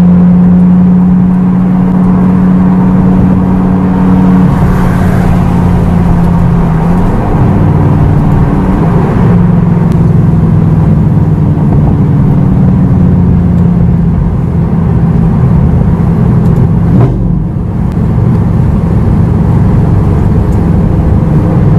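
Lamborghini Gallardo LP560-4's 5.2-litre V10 with an Armytrix valved exhaust, valves open, running under way as heard from inside the cabin. The engine note shifts in pitch several times, with a brief dip in the sound about seventeen seconds in.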